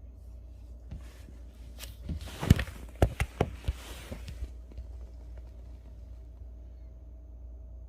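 A small dog scrabbling, its claws clicking, as it pushes its way into a tight space: rustling with a quick run of sharp clicks and knocks over about three seconds, the loudest knock about two and a half seconds in.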